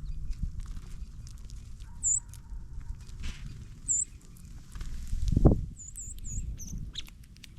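Small birds feeding on seed close to the microphone: light pecking and scratching clicks, with several very short, high chip notes. A louder low thump comes about five and a half seconds in.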